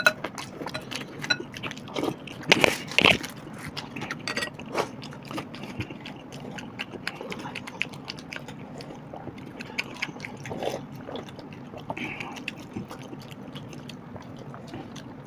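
Close-miked eating sounds: chewing and mouth clicks, with a few sharper clicks and smacks in the first few seconds, then quieter.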